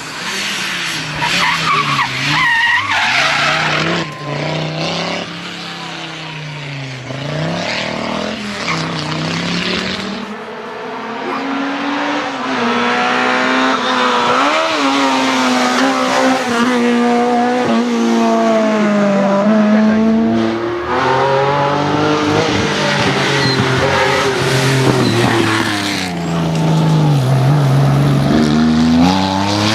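Historic rally car engines revving hard, the pitch climbing and dropping again and again through gear changes, with tyre squeal and skidding.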